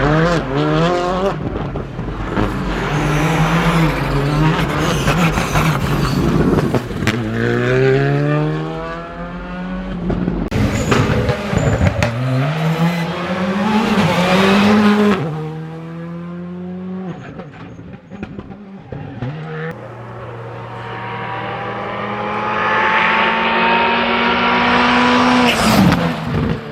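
Skoda Fabia R5 rally car's turbocharged four-cylinder engine at full attack over a string of short clips: revs climbing through the gears and dropping as the driver lifts or shifts, ending with one long pull rising in pitch near the end.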